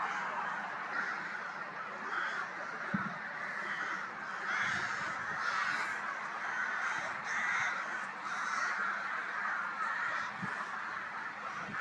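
Birds calling: a run of harsh, repeated calls, about one a second, over a steady background hiss, with a few soft low knocks.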